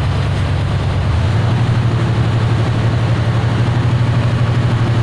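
An engine running steadily with a low hum; its note shifts up slightly about a second in.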